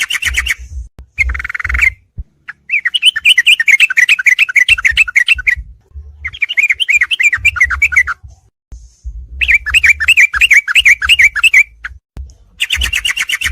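Yellow-vented bulbul (trucukan) song: phrases of rapid chattering, bubbling notes repeated many times a second, broken by short pauses, with the longest phrase lasting about three seconds.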